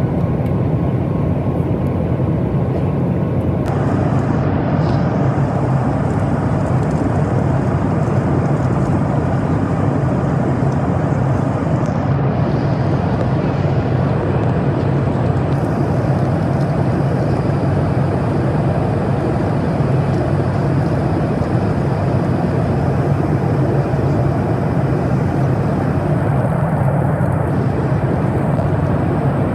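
Steady drone of a Boeing 737 MAX 8's jet engines and airflow heard inside the cabin, even and unchanging in level.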